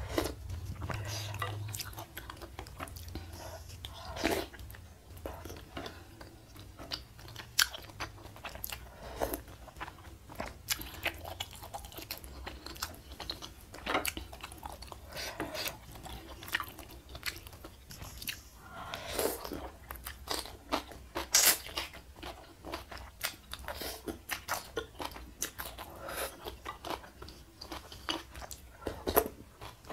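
Close-miked eating sounds: chewing and biting on spicy Korean noodle soup with squid and on stir-fried pak choi, with crunching and many irregular wet mouth clicks.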